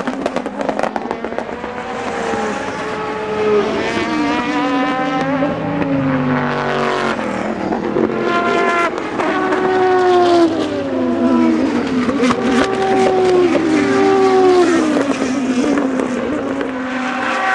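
Endurance race cars passing at speed one after another, each engine note dropping in pitch as the car goes by, with sharp crackles throughout.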